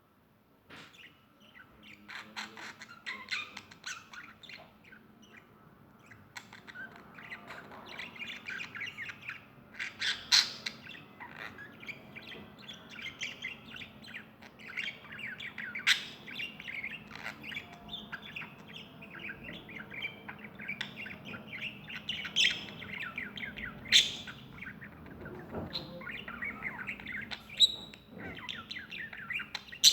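Several birds chirping and squawking continuously in a dense, rapid chatter, with a few louder, sharp calls standing out now and then.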